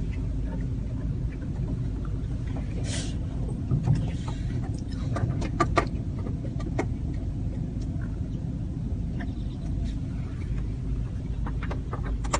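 Steady low rumble of a car heard from inside its cabin, with scattered short sharp ticks and taps, clustered about halfway through, and a brief hiss about three seconds in.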